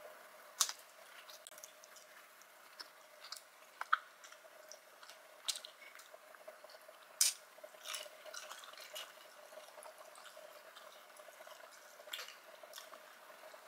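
Close-miked eating sounds: a peeled shrimp being chewed, with scattered wet mouth clicks and smacks, about six sharper ones spread through, over a faint steady hum.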